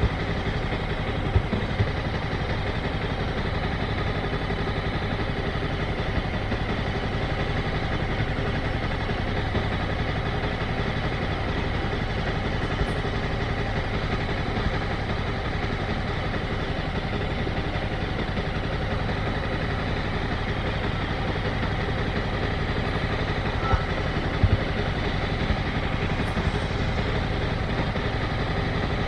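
Motorcycle engine running steadily at low, even revs, with a few brief clicks about a second in and again later.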